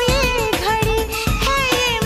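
Hindi film song playing: a singer's melody over a steady drum beat.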